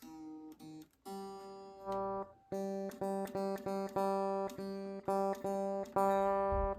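Solar 27-inch baritone guitar with an Evertune bridge, one string plucked over and over at the same pitch, a few times a second, while the string height is being set. A higher note fades out at the start before the repeated plucks begin about a second in.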